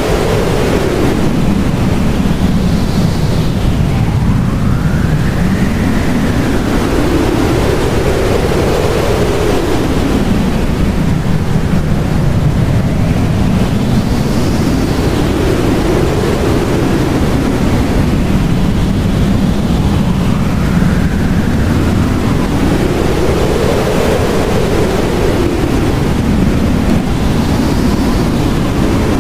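Blizzard wind howling over a steady rushing roar, with gusts that whistle up and down in pitch every few seconds.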